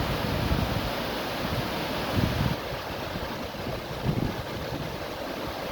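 River water rushing, a steady even noise, with low thumps of wind buffeting the microphone, the strongest about two seconds in and again around four seconds.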